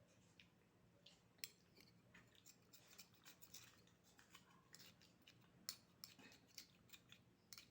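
Faint, irregular clicking and crackling from eating cooked oysters: shells handled and the meat picked out and chewed, with a few sharper clicks standing out.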